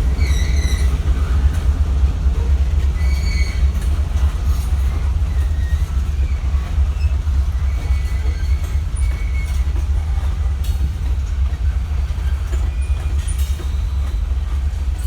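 Train rolling along the track, with a heavy steady low rumble and a few short high squeals from the wheels.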